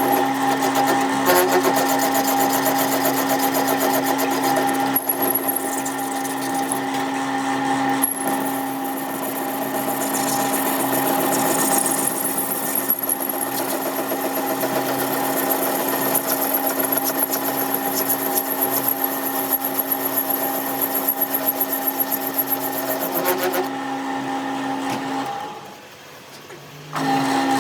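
A machine running steadily with a constant hum and a busy mechanical clatter. It dies away for a couple of seconds near the end, then starts up again.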